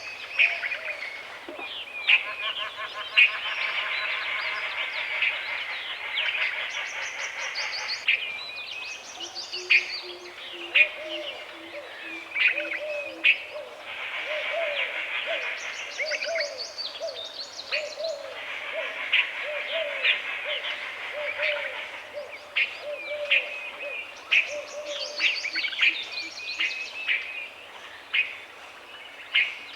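Woodland bird chorus: many birds chattering and calling at once, with sharp high calls throughout. A low hooting call is repeated about twice a second for a few seconds near the middle, over a run of short mid-pitched notes.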